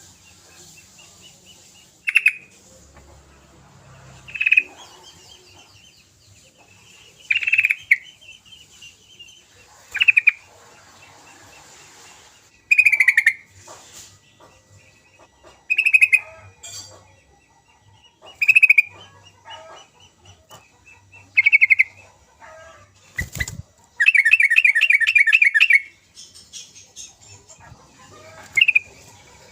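Yellow-vented bulbul (trucukan) giving short bright calls every two to three seconds, then a longer rapid chattering phrase about 24 seconds in. A single low thump comes just before the chatter.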